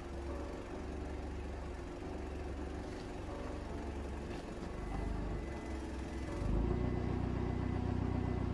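Car engine idling behind the trailer hitch as the car is positioned to couple up; it grows louder about six and a half seconds in.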